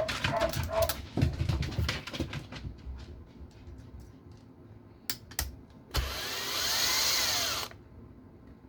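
Small parts clicking and rattling, two sharp clicks, then a cordless electric screwdriver whirring for under two seconds, its pitch rising and falling as it drives a 30 mm screw up into an RC car's transmission housing.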